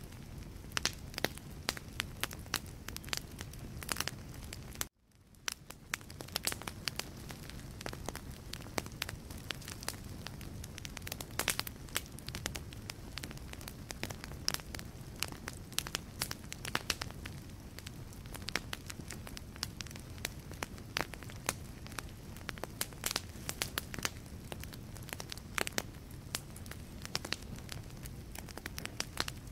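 Wood fire burning in a fireplace: frequent sharp crackles and pops from the logs over a steady low rush of flame. About five seconds in, the sound cuts out for a moment and fades back in.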